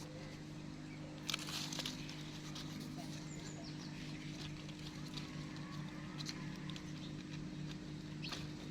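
A steady low hum with scattered clicks and rustling, a burst of it about a second in, and a few faint, brief high squeaks around three seconds in.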